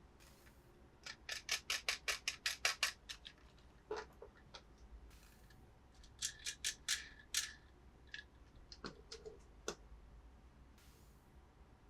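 Quick sharp clicks and snips from handling toy cars and their plastic packaging: a run of about six clicks a second for two seconds, a second run around six seconds in, and scattered single clicks.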